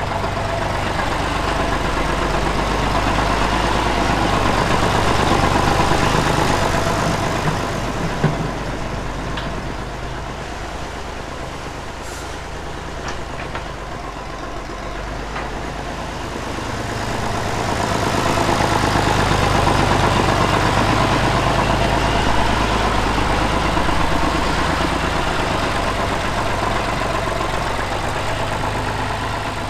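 Tractor engine running steadily, growing louder, easing off in the middle, then louder again.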